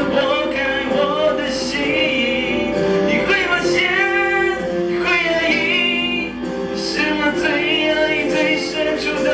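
A pop ballad, with a voice singing long held, wavering notes over the accompaniment.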